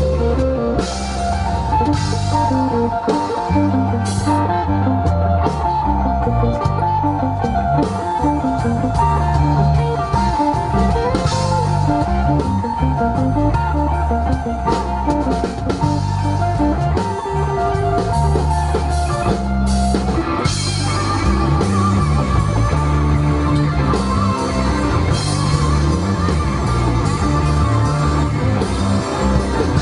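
Live rock band playing an instrumental passage with no singing: guitar lines over bass and a drum kit, at a steady loud level.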